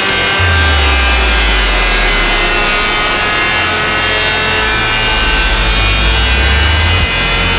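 BMW S1000RR's inline-four engine running through an Akrapovic GP exhaust, a steady buzzing note whose pitch drifts slowly rather than revving sharply.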